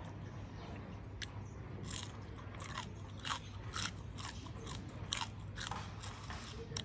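Crisp crunching and chewing of deep-fried bullfrog: irregular crunches, several per second, starting about two seconds in.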